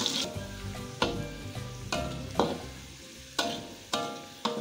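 Gentle background music, single notes struck one after another and ringing out, over the sizzle of sliced shallots frying in oil in a wok. The sizzle is loud at first and drops to a faint hiss just after the start.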